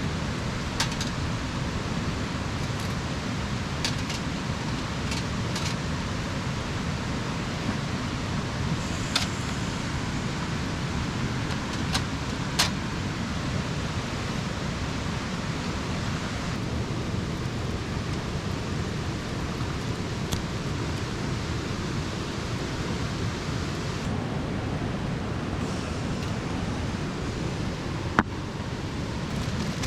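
Wood campfire burning: a steady rushing hiss with a few sharp crackles and pops scattered through it, the loudest near the end.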